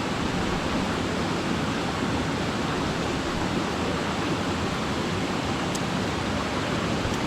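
Steady rushing of a waterfall, an even roar of falling water with no change.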